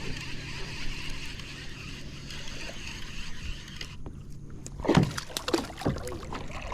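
Knocks and thumps on a kayak, with a little water sloshing, during the handling of a just-caught fish. A steady outdoor hiss cuts off about four seconds in, and several sharp bumps follow about a second later.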